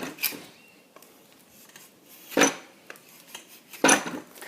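A blade cutting a softwood wedge, in three separate short, sharp strokes, the last one doubled.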